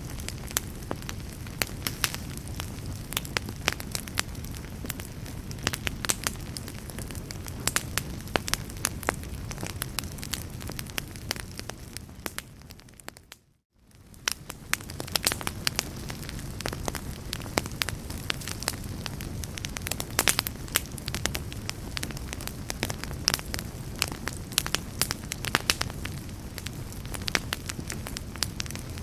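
Wood fire crackling and popping in a fireplace, with irregular sharp snaps over a steady low rumble of flames. About halfway through, the sound fades out to near silence and quickly fades back in.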